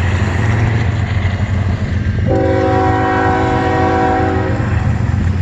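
CN train rolling by with a steady low rumble. A little over two seconds in, a locomotive's multi-chime air horn sounds one steady chord for about two seconds.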